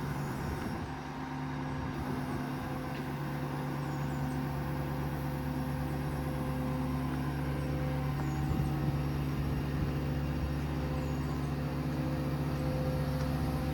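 The 6.7 L Power Stroke V8 diesel of a Ford F-550 service truck running steadily: a low drone with a constant hum that grows slightly louder toward the end.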